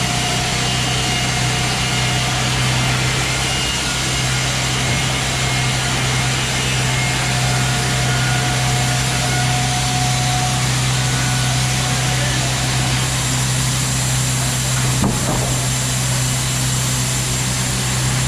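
Wood-Mizer portable band sawmill running steadily, its diesel engine humming while the blade cuts a log, with a single short knock about fifteen seconds in.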